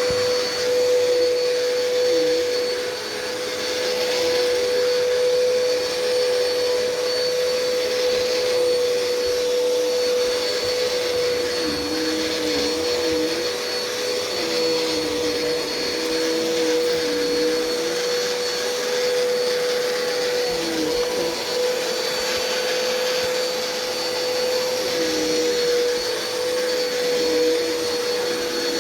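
Bissell PowerLifter Swirl Pet upright vacuum cleaner running continuously while vacuuming carpet, with a steady motor whine and a lower tone that wavers and dips as it is worked.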